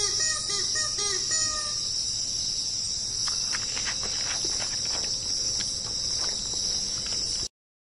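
Steady high-pitched insect drone, with a bird calling in a run of short arched notes, about two a second, through the first two seconds and a few faint clicks later. The sound cuts off suddenly near the end.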